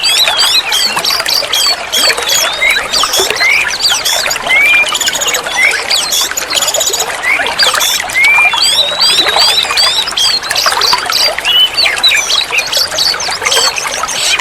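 Oriental magpie-robin (kacer) singing a continuous, varied song of clear whistles, slurred rising notes and rapid chattering phrases, dense and without pause.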